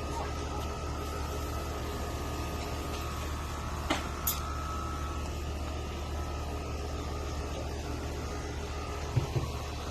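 A steady low hum with background hiss, broken by two short clicks about four seconds in and a couple of soft thumps near the end.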